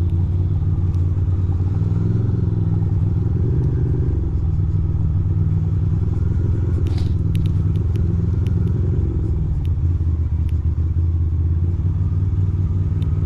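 2006 Ducati Monster 620's air-cooled L-twin engine running at low, steady revs while the bike rolls slowly. A few brief clicks come about seven seconds in.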